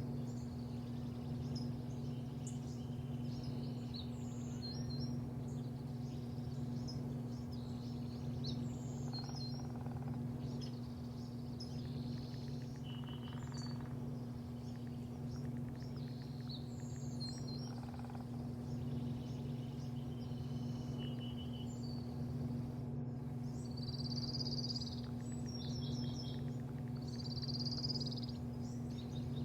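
Birds chirping and whistling in short, repeated calls over a steady low machine hum.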